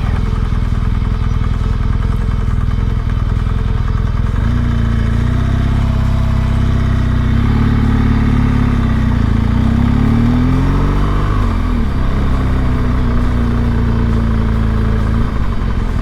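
Motorcycle engine running at low speed, its note rising and falling several times from about four seconds in as the throttle is opened and closed.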